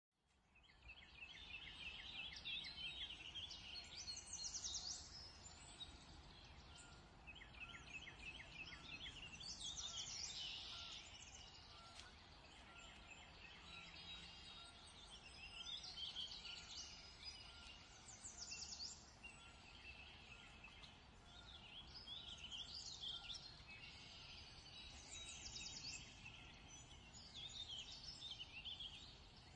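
Faint birdsong: several small birds chirping and giving rapid trills in short high phrases every few seconds over a soft steady hiss. It fades in about half a second in.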